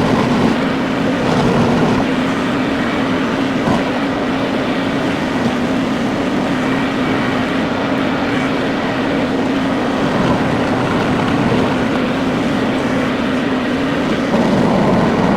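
Tractor engine running steadily with a constant drone.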